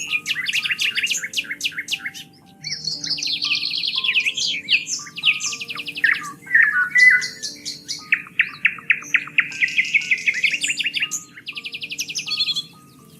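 Songbirds singing in fast trills and rapidly repeated chirps, one phrase after another with a short pause about two and a half seconds in, over soft background music with slow held low notes.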